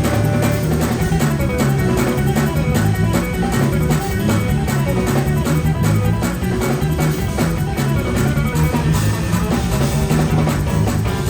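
Live gospel band playing an uptempo instrumental stretch: guitar and bass over a fast, steady drum beat.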